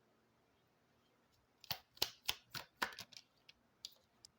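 Oracle cards being handled: a quick run of about eight sharp clicks and snaps starting about a second and a half in, then a few faint ticks.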